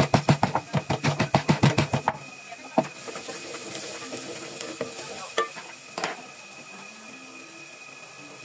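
Quick, even strokes of a kitchen utensil, about seven a second, for the first two seconds. Then food sizzles steadily in a hot pan, with a few sharp clinks of a utensil against the pot.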